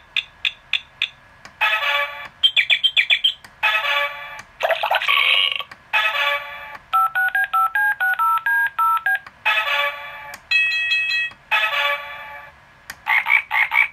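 Electronic sound effects from a Hasbro Operation Silly Skill game's small built-in speaker. A string of short, tinny buzzy tones and chirps plays, with a simple beeping tune of about a dozen notes around seven seconds in.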